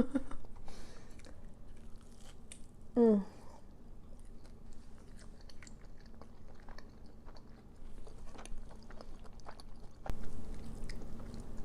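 Close-up chewing and crunching of crispy breaded food, with many small crackles, louder again after about ten seconds. A brief vocal sound about three seconds in.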